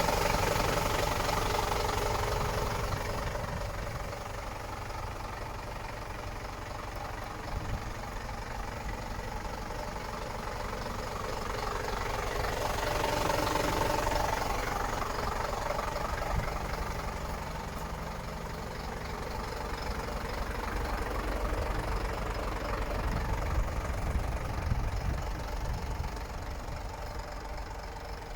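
Scania P93.250 truck's diesel engine running at idle, a steady low engine sound that swells louder at the start and again around 13 to 14 seconds in.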